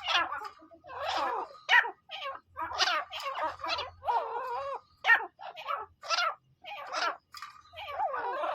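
Teetar (francolin partridge) calling: a fast, uneven run of short, harsh calls, two or three a second, with brief pauses between runs.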